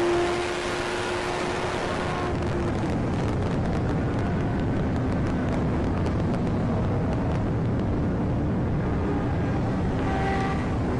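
Police patrol car driving at high speed: steady road and wind noise with the engine running. A steady engine tone fades out about two seconds in.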